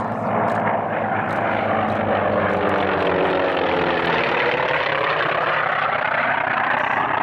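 Propeller airplane flying by, its piston engine running at a steady loud drone whose tone sweeps and shifts as it passes.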